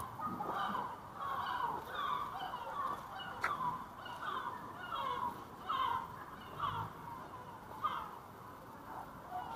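A bird calling over and over, short calls at about two a second, with faint street noise underneath.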